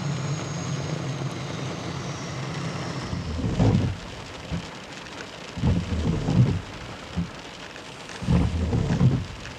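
UH-60 Black Hawk helicopter's turbine whine and rotor noise fading out over the first three seconds as it flies away. Rain follows, with several short, loud, low rumbles of wind gusts buffeting the microphone.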